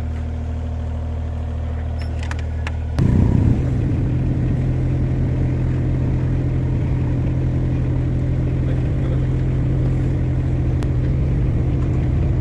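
Mini excavator's diesel engine running steadily, then rising in speed and loudness about three seconds in and holding at the higher speed. A few sharp clicks and knocks come through along the way.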